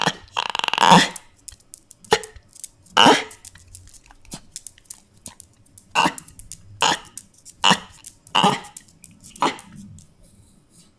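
A dog making a string of short, rough vocal sounds, about eight of them: a longer one lasting about a second at the start, then brief ones spaced roughly a second apart, fading near the end.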